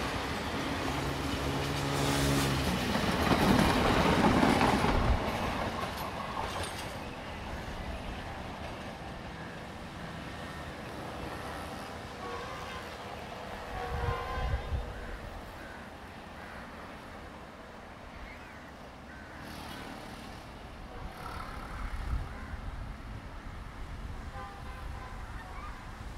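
Passenger train hauled by a Class M7 diesel locomotive running past on the rails, its coaches' wheels rumbling and clattering, with a steady horn tone sounding in the first few seconds. The sound is loudest a few seconds in, then fades as the train draws away.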